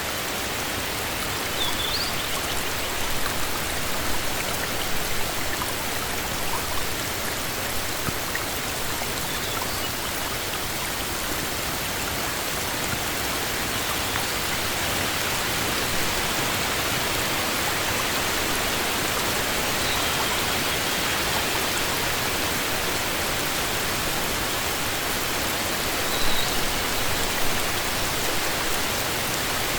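Heavy rain falling steadily on a forest as an even hiss, with brief louder close drops now and then, mostly in the first few seconds and near the end.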